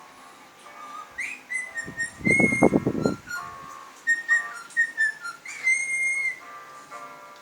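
Cockatiels whistling: a string of short clear notes and rising slides, several held briefly. About two seconds in a loud rough burst lasting about a second cuts across the whistles.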